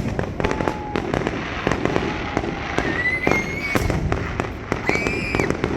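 Fireworks display: a rapid string of aerial shell bangs and crackles going off one after another, with a few brief high steady whistling tones mixed in.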